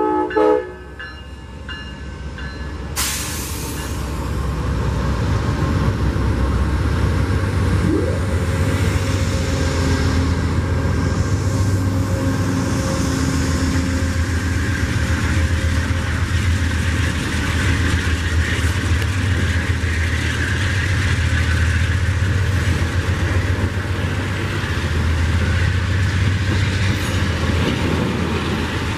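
Train horn's last short blast ends just after the start. From about three seconds in, a passing train's deep rumble and steady wheel-on-rail noise rise and hold loud.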